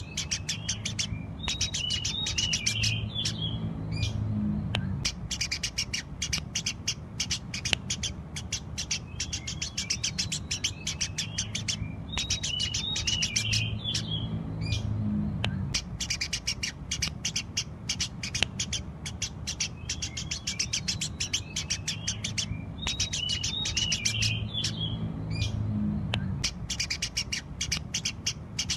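Eurasian tree sparrows chirping continuously in a dense, rapid chatter, over a low steady hum. The same stretch of chirping repeats about every ten seconds, as a looped recording does.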